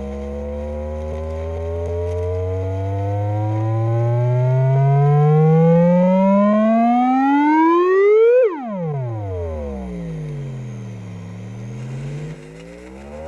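A buzzy electronic tone with strong overtones sweeping slowly upward in pitch for about eight seconds, dropping abruptly, then gliding down and climbing again near the end. It is played through the Panasonic RX-6400 boombox's line input and out of speakers as an audio test.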